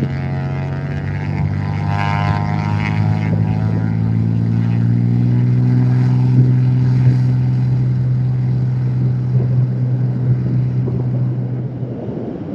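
Cessna T210 Turbo Centurion single-engine plane at full takeoff power, its turbocharged six-cylinder engine and propeller giving a steady drone. The drone is loudest about six seconds in, then fades as the plane climbs away.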